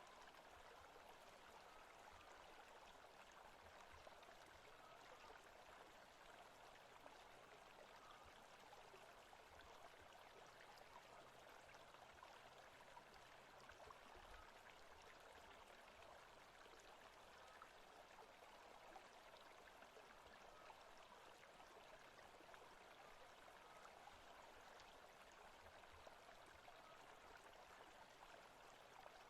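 Faint forest ambience track: a steady, even rushing noise with no distinct events.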